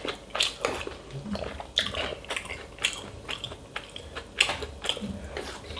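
Close-miked eating sounds: a person chewing and biting, with irregular short, sharp mouth clicks and smacks.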